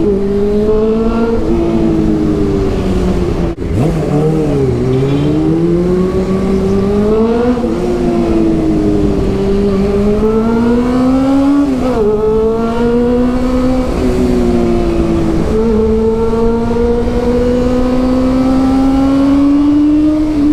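Honda CB400's inline-four engine running through a Two Brothers aftermarket exhaust while riding. The engine note climbs repeatedly and drops sharply at each gear change, about five times, then holds a steadier rising pitch near the end.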